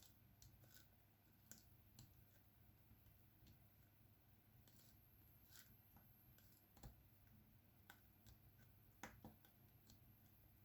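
Faint, irregular clicks and taps of a diamond-painting pen setting resin drills onto the canvas, a clearer click about nine seconds in, over a low steady hum.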